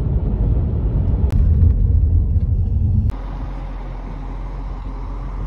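Loud, uneven low rumble that changes abruptly about three seconds in to a quieter, steadier rumble.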